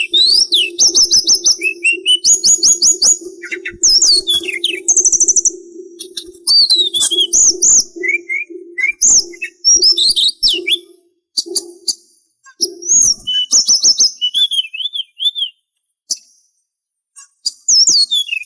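Sulingan songbird singing a fast, varied song of high whistles, rapid trills and swooping notes, with short pauses toward the end, over a low steady hum that fades out about two-thirds of the way through.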